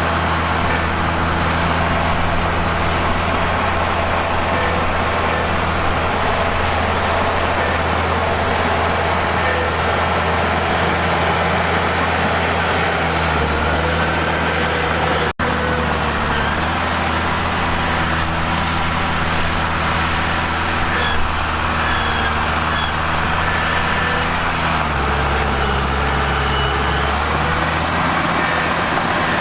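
Heavy bulldozer diesel engine running steadily under load. Its note drops lower a little past the middle and again near the end. There is a momentary break in the sound about halfway through.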